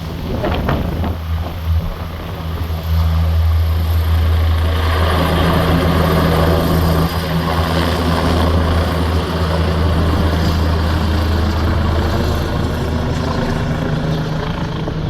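Air ambulance helicopter's rotors and engines running loud and steady with a deep rotor hum, growing louder about three seconds in.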